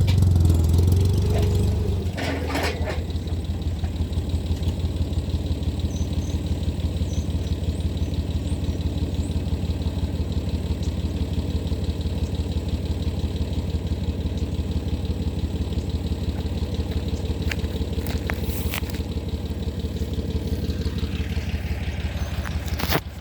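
Small Chinese tractor's engine running steadily under load while pulling a disc harrow in second gear on the high range, with a fast even beat; it is louder for the first two seconds.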